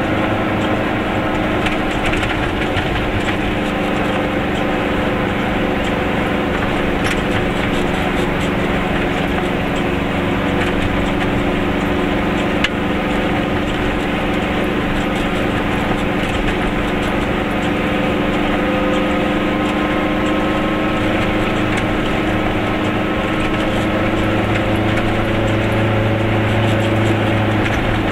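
Two-stroke twin-cylinder engine of a Goggomobil microcar running steadily under way, heard from inside the small cabin, a little louder near the end. One sharp click about halfway through.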